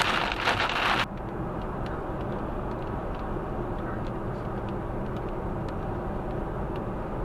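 Car driving on a motorway in heavy rain: a loud hiss of rain and spray stops abruptly about a second in. It leaves a steady drone of road and engine noise with faint scattered ticks.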